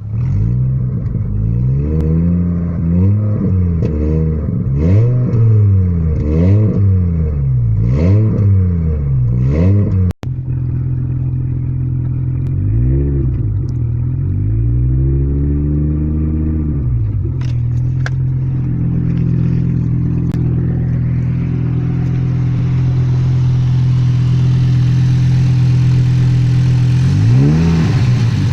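1997 Volvo V70 GLT's 2.5-litre straight-five petrol engine running with no exhaust past the catalytic converter, blipped up and down about half a dozen times in quick succession, then after a brief break settling into a steady idle with a few more single revs. The open exhaust gives the engine its five-cylinder rumble.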